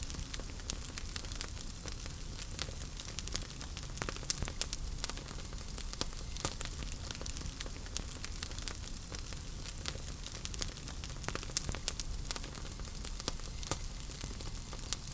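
Wood fire burning in a fireplace: a steady low rumble and hiss with frequent sharp, irregular crackles and pops from the burning logs.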